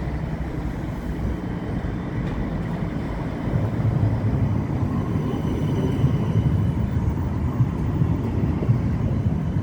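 A heavy vehicle running close by: a steady low rumble that grows louder about three and a half seconds in.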